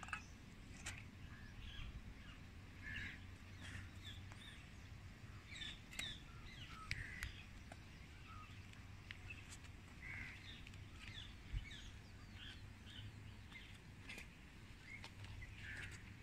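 Faint birdsong: many short chirps and calls from several birds, scattered throughout, over a low steady rumble.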